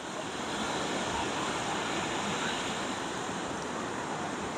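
Ocean surf washing onto a beach, a steady rush of waves with some wind.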